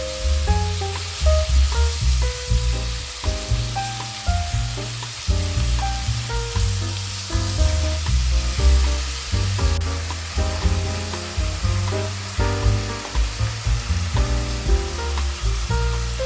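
Food sizzling in a hot frying pan, a steady hiss, under background music with a melody and bass line.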